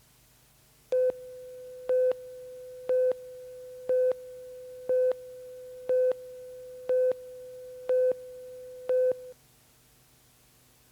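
An electronic tone holds steady while a louder beep sounds once a second, nine beeps in all, then the tone cuts off.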